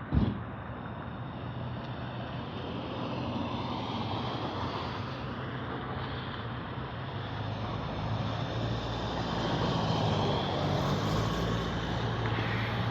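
A steady engine hum that slowly grows louder, with a short thump just at the start.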